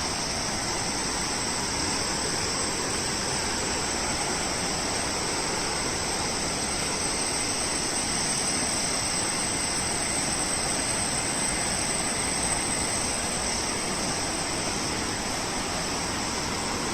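Fast-flowing river rushing over rocks, a steady, even rush of water, with a continuous high insect hum over it.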